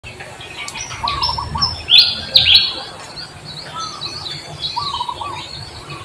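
Birds chirping and calling, with two loud, sharp chirps about two seconds in and a short repeated call phrase twice.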